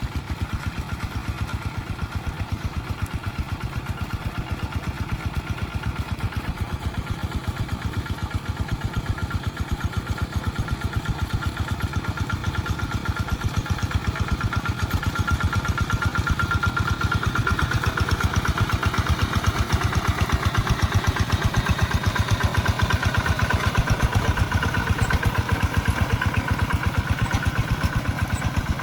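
Rice-field tractor engine running steadily with an even, fast chugging pulse, growing gradually louder over the first two-thirds.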